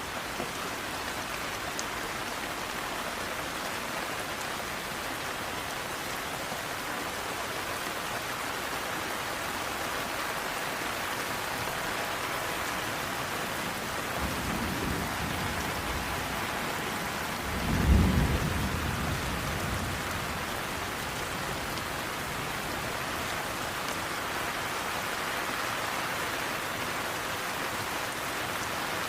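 Steady rain falling, with a low roll of thunder building about halfway through and peaking in a deep rumble a few seconds later before fading.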